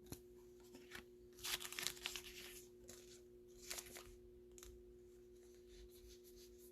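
Faint plastic rustling and sliding as baseball cards are slipped into soft plastic penny sleeves: a few short scrapes, the longest about one and a half seconds in, over a steady low hum.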